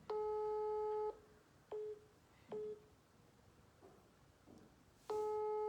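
Telephone ringback tone heard over the phone's speaker while an outgoing call rings unanswered: a steady tone of about a second, repeated about five seconds later, with two short beeps of the same pitch in between.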